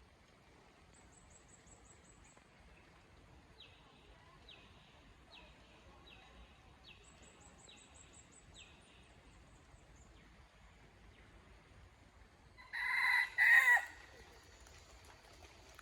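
A cockerel crows once, loud and harsh, in two quick parts about a second long near the end. Before it, smaller birds call softly: a run of short falling chirps about one every three-quarters of a second, and two brief high trills.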